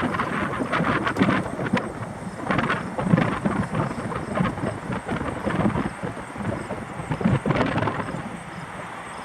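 Strong wind buffeting the microphone: an uneven, gusting rumble that swells and drops every moment.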